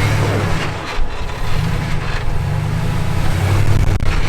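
Off-road vehicle engine running at low revs while the truck crawls over a rock obstacle, its note rising and falling a little.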